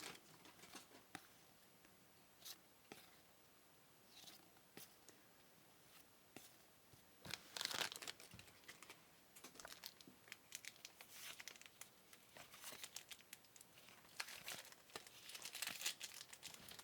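Trading card pack wrappers crinkling and tearing as they are worked open, in scattered quiet spells, loudest about halfway through and again near the end.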